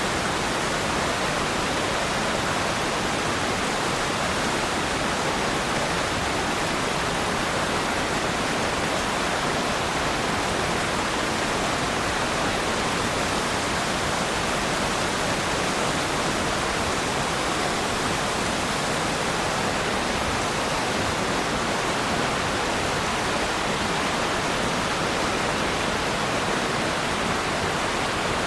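Waterfall, water falling and splashing in a steady, even rush with no change.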